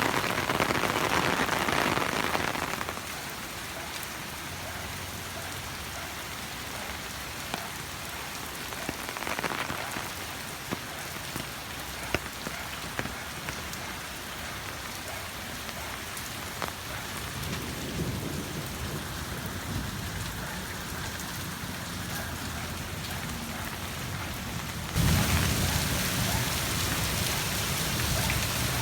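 Heavy rain falling, a steady hiss with the sharp ticks of individual drops. The rain gets quieter about three seconds in, a low rumble rises partway through, and the rain suddenly gets louder again near the end.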